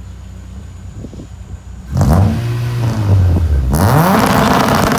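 Tuned car engine idling low, then revved hard about two seconds in, rising and falling in pitch. For the last second or so it is held steady on a two-step launch rev limiter with a loud, rapid crackle from the exhaust.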